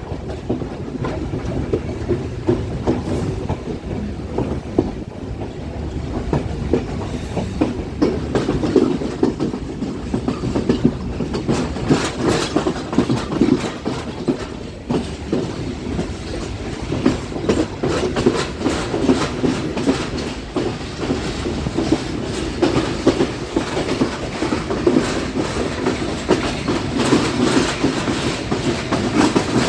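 Passenger train running along the track: a steady rumble with the clatter of wheels over rail joints, the clicks coming thicker in the second half.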